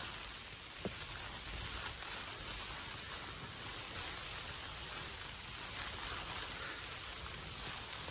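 Steady hiss of wind-driven snow, with a low wind rumble on the microphone and one short click about a second in.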